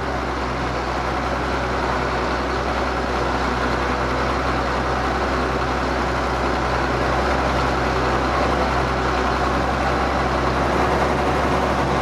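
Ford TW tractor's diesel engine running steadily, a constant low drone that grows slightly louder over the first couple of seconds.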